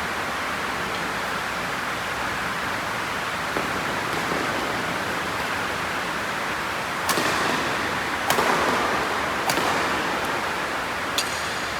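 Steady rushing noise, with four sharp smacks about a second apart in the second half, typical of a shuttlecock struck by badminton rackets in a rally; the last smack rings briefly.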